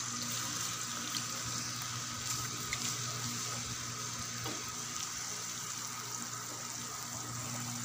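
Garlic-ginger paste sizzling steadily in hot oil in an aluminium pressure cooker as it is stirred with a silicone spatula, over a steady low hum.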